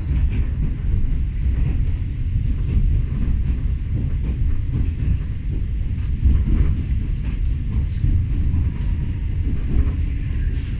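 Newag Impuls 35WE electric multiple unit heard from inside the carriage while running along the line: a steady low rumble of wheels on track with faint scattered knocks.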